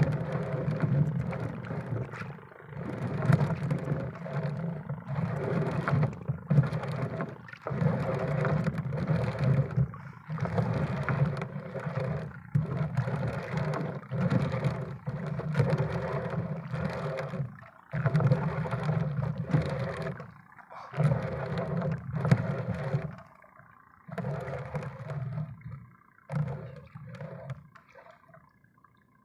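A small boat engine running with a steady drone, its sound dropping out briefly every second or two and fading away near the end.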